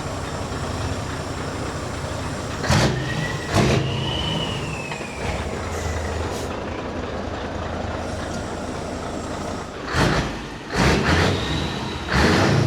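Scania 143's 14-litre V8 diesel idling steadily while the truck creeps along, with about five short, loud hisses from its compressed-air system, two about three seconds in and three in the last few seconds.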